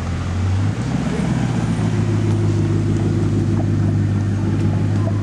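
A car engine running at a steady idle, a low even drone that steps up slightly in pitch about a second in.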